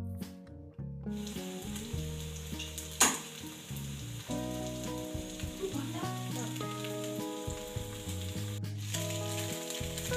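Batter-coated rusk pieces shallow-frying in a little oil in a pan, sizzling steadily from about a second in. A single sharp crack about three seconds in stands out above the sizzle.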